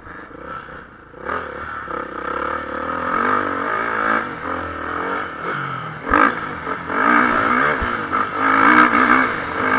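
Motocross bike engines revving hard on the track, their pitch rising and falling as the bikes accelerate, shift and pass, growing louder about a second in.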